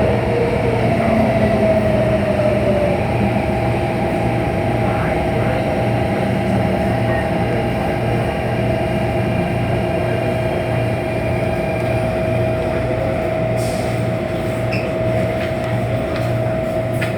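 CAF-built MTR Tung Chung line electric train running at a steady speed, heard from inside the carriage: a steady whine from the traction equipment over a continuous rumble of wheels on track.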